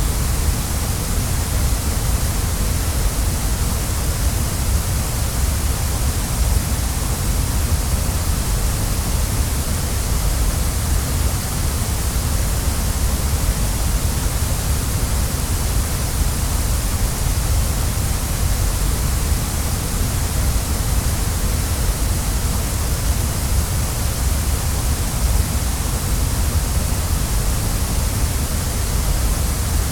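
Waterfall rushing in a steady, unbroken wash of water noise, with a deep low rumble under a bright hiss.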